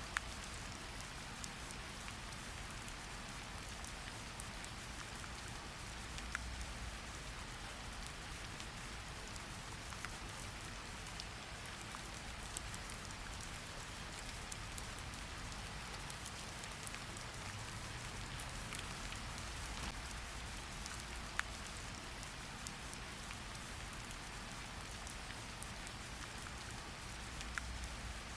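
Steady rain falling: an even hiss with scattered sharper drop ticks and a low rumble underneath.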